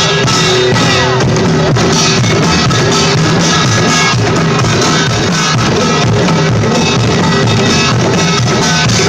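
Live band music played loudly and without a break, with drums.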